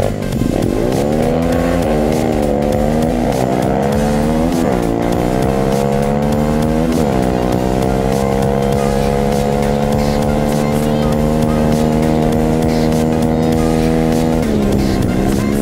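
A 125 cc pit bike's single-cylinder four-stroke engine accelerating hard, its pitch climbing and dipping at several gear changes, then held at steady high revs. Near the end the revs drop and pick up again.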